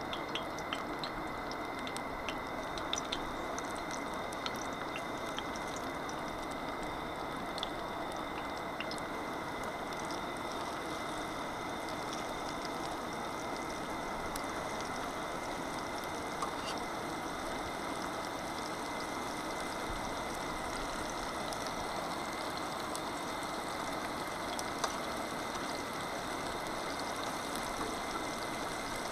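Northern pike fillets and small potatoes frying in oil in pans on a two-burner propane camp stove: a steady sizzle with small pops and crackles throughout, and a thin steady high tone behind it.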